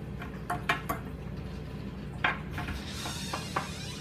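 Light clicks and knocks of small hard objects being handled and set down, about eight separate taps, with a short hiss shortly before the end over a steady low hum.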